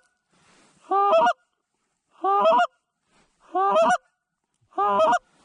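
Goose honking: four loud, evenly spaced two-part honks about a second and a half apart.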